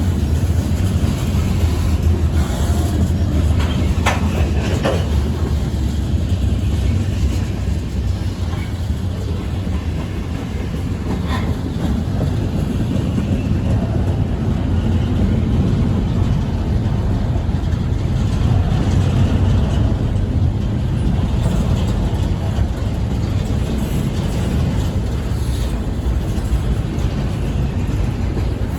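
Norfolk Southern freight train rolling past, its railcars making a steady heavy rumble over the rails, with a few brief metallic squeaks from the wheels about four, five and eleven seconds in.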